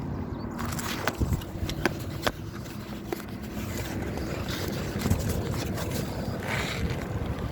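Steady outdoor rumble of road traffic and wind, with a few sharp clicks.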